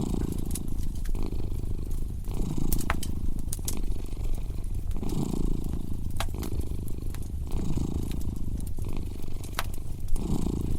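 A cat purring steadily, the purr swelling and easing with each breath about every two and a half seconds, over a crackling fireplace fire with scattered sharp pops.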